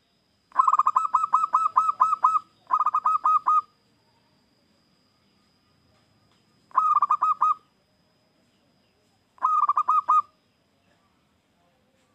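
Zebra dove (perkutut) singing: bursts of quick, rapidly repeated cooing notes. Two bursts come close together near the start, then two shorter ones a few seconds apart.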